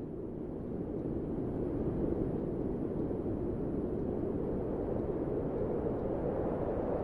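Steady, low wind noise, a deep rushing hiss with gentle swells and no gusts standing out.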